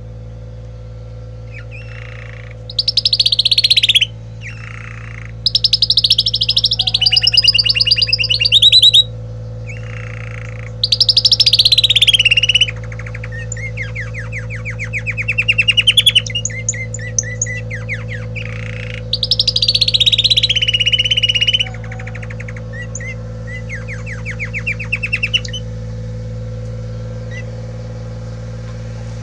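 Agate yellow opal canary singing: loud phrases of rapid trills and rolls, several sliding down in pitch, alternating with quieter trill passages and short pauses. A steady low hum runs underneath.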